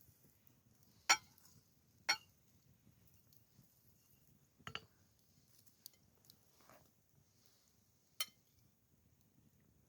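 A few sharp clicks or cracks at irregular intervals, the loudest about a second and two seconds in, over a faint steady hiss.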